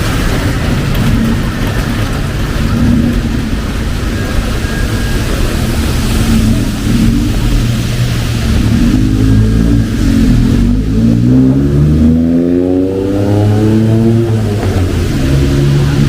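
Street traffic with a motor vehicle's engine accelerating past, its pitch climbing over about five seconds in the second half, over a steady hiss of rain and traffic noise.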